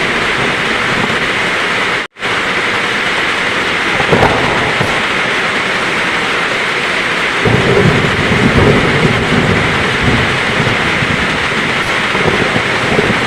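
Heavy rain pouring steadily, with a low rumble of thunder swelling from about seven seconds in. The sound drops out for an instant about two seconds in.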